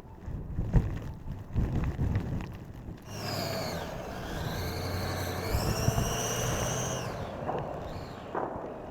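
An engine running, with a high whine that dips and then rises in pitch, from about three seconds in for about four seconds. Before it, low thumps and rumbling.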